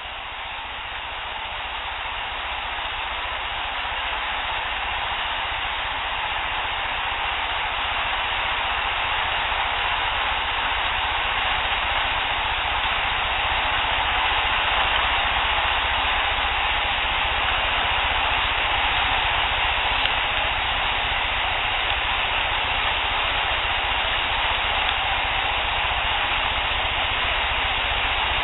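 Steady hiss of a field recorder's noise, swelling over the first several seconds and then holding even, with no distinct squeaks or knocks standing out.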